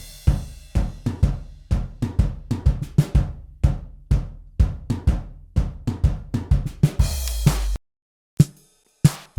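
Sampled acoustic drum kit, the towel-damped Aqua kit of the Alchemy of Pop EZX for EZDrummer 3 in its Roomy preset, playing a busy groove of kick, snare and hi-hat that opens on a crash. Near the end a held low boom sounds and the groove stops abruptly, followed by two lone hits.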